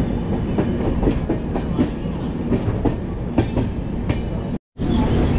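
Shatabdi Express passenger train running on the track: a steady low rumble with irregular clicks and clacks of the wheels over the rails. The sound cuts out completely for a split second near the end.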